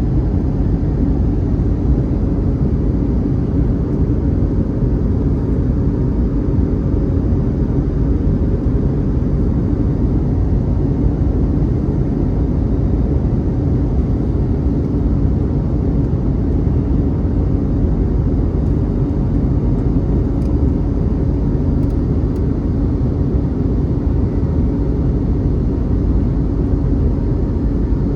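Steady, even jet engine noise of an Airbus A321neo's Pratt & Whitney PW1100G geared turbofans, mostly low and rushing, with a faint steady hum running through it.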